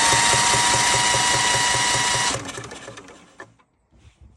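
Yanmar 2GM two-cylinder marine diesel cranked on its electric starter motor: a high starter whine over a fast, even chugging of the compression strokes. The cranking stops about two seconds in and the engine spins down without firing.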